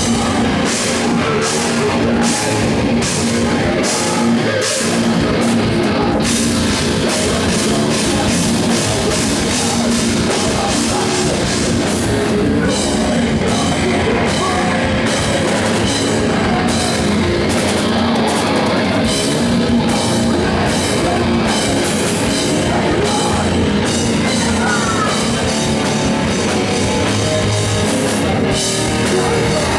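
Post-hardcore rock band playing live: distorted electric guitars, bass and drum kit, loud and dense, with sharp drum hits about twice a second in the opening seconds.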